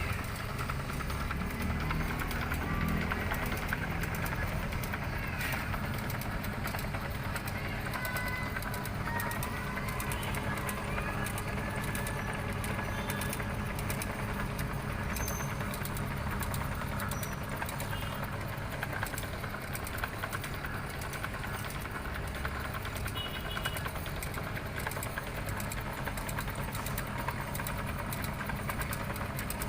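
Motorised noodle-making machine, driven by a reused washing-machine motor, running steadily with a constant low hum.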